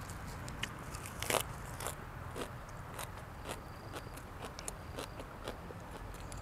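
A person chewing and crunching food close to the microphone, with scattered small clicks and one louder crunch about a second in.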